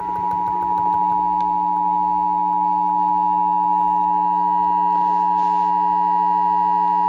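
Emergency Alert System attention signal: two steady tones sounding together, the two-tone alarm that precedes a broadcast severe thunderstorm warning.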